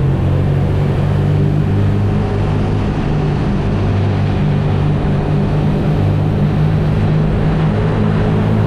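BMW R nineT's boxer-twin engine running steadily while the motorcycle rides along, its low exhaust note holding near one pitch with small shifts in engine speed.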